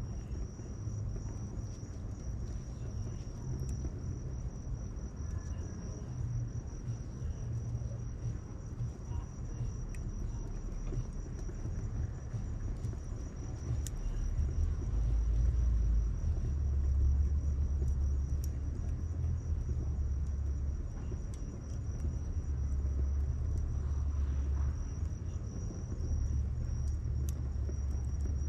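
Wood bonfire crackling with a few sharp pops, over a steady high insect trill and a low rumble that grows louder about halfway through.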